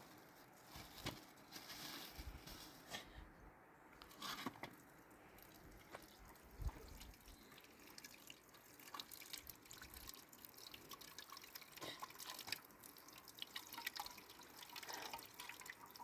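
Faint water dripping and trickling, with scattered irregular small clicks and taps.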